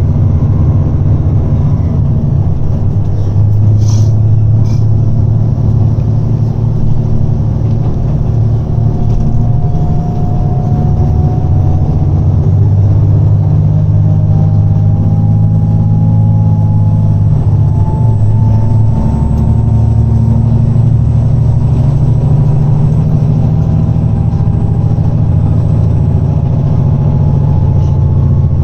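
JR Shikoku 2700 series diesel railcar's engine working hard at full power as the train gathers speed: a loud, steady low drone with a whine that slowly rises in pitch. A couple of sharp clicks come about four seconds in.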